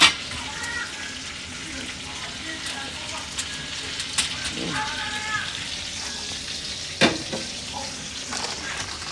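Food frying in hot oil: a steady sizzle, with a sharp knock at the start and another about seven seconds in.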